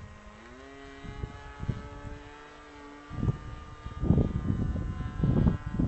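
Model airplane's motor and propeller running as a steady whine that rises in pitch about half a second in as the throttle is opened, then holds. From about three seconds in, loud gusts of wind buffet the microphone over it.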